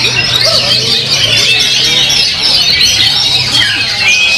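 Many songbirds singing at once in a dense, unbroken tangle of chirps, whistles and warbles, over a low steady hum.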